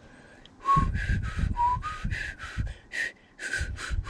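A man whistling a quick run of short, breathy notes, a few to each second.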